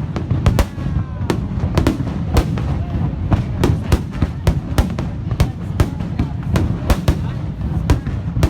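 Fireworks display: a rapid, irregular string of sharp bangs, about three a second, over a constant low rumble of further explosions.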